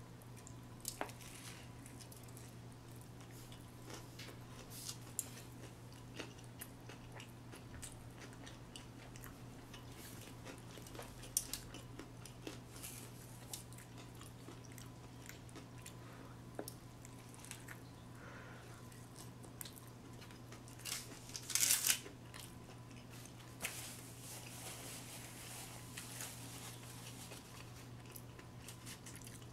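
A person chewing and biting into a crispy fried chicken sandwich, with scattered small crunches and one louder crunchy bite about three-quarters of the way in.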